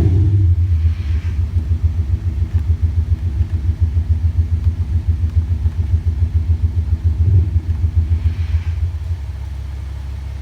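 Porsche Cayenne Diesel with a Maxhaust active sound booster giving a Maserati-style exhaust note. A rev dies away at the start into a steady, low, pulsing idle rumble, with a short throttle blip about seven seconds in.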